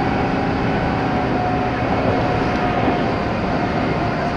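A steady engine or vehicle running, with an even hum and a faint steady whine.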